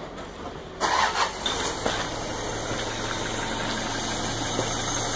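A sudden loud rush of noise about a second in, then a vehicle engine idling steadily with a low hum.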